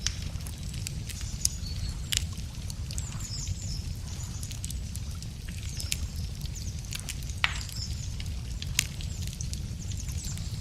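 Wood campfire crackling, with scattered sharp pops a second or two apart over a steady low rumble, while birds sing short high chirps in the background.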